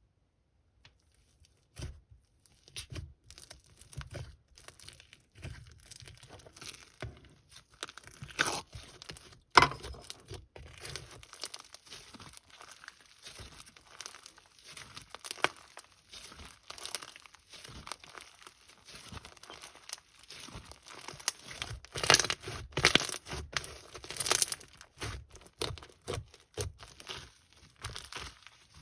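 Plastic packaging crinkling and tearing as it is handled and opened, in irregular rustles with sharper crackles now and then, louder around a third of the way in and again near the end.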